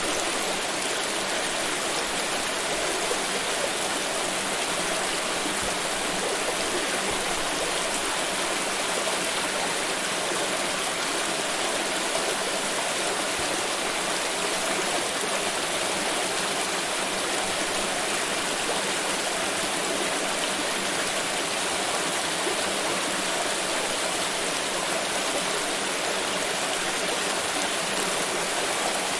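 Water pouring in a steady, unbroken rush with no pauses or separate splashes.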